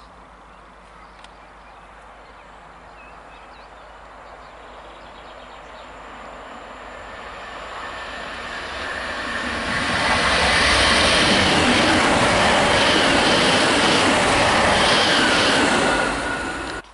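Great Northern electric passenger train approaching, growing steadily louder over about ten seconds, then running loudly past with wheel and rail noise for several seconds before the sound cuts off suddenly.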